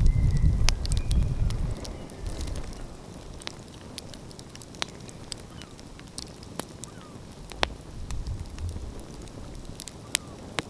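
Open wood fire crackling, with scattered sharp pops and snaps. A low rumble sits under it for the first two seconds and returns briefly about eight seconds in.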